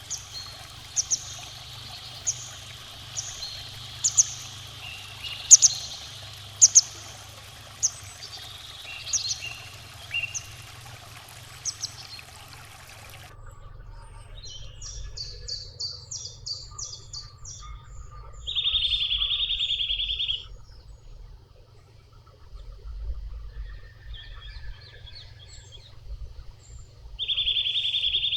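Birds chirping with short, sharp calls repeated every second or so over the steady hiss of running water. About thirteen seconds in, the water hiss cuts off and other birdsong follows: a rapid run of high notes, then a loud buzzing sound twice, each about two seconds long.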